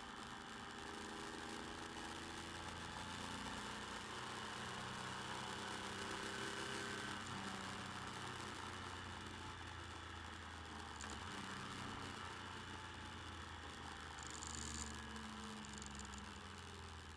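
Motorcycle engine running under way, picked up by a bike-mounted camera mic along with a steady rush of wind and road noise; the engine note shifts a few times as the speed changes.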